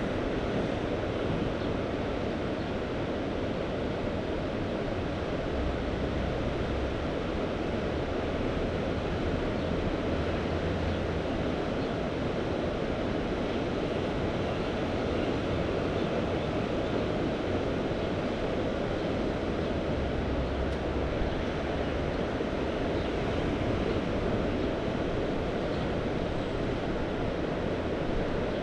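Mediterranean sea waves washing in a steady, continuous surf, with wind rumbling on the microphone now and then.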